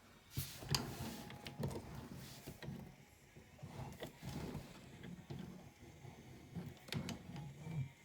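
Plastic transforming robot toy figure being handled: parts being moved, with irregular rustling and a few sharp plastic clicks.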